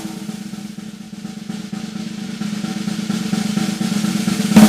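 Snare drum roll sound effect, growing steadily louder and ending with a loud hit near the end that rings on.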